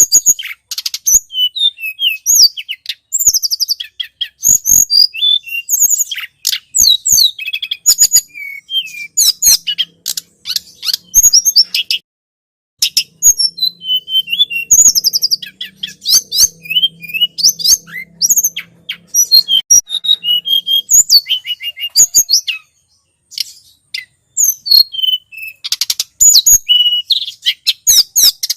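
Tledekan gunung song played as a bird-trapping lure call: rapid, high-pitched chirps and short trills repeated almost without pause, breaking off briefly twice. A faint low hum sits under the calls through the middle.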